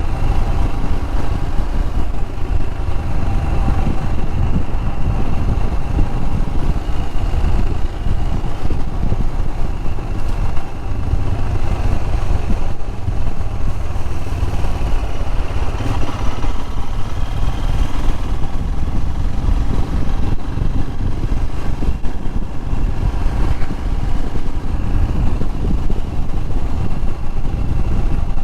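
Royal Enfield Himalayan's single-cylinder engine running steadily under way, a continuous motorcycle engine note with a heavy low rumble. The bike is box standard apart from an opened-up air filter.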